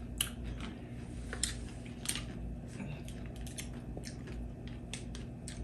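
Scattered small crunches and wet clicks of a pickle being chewed, irregular and fairly quiet.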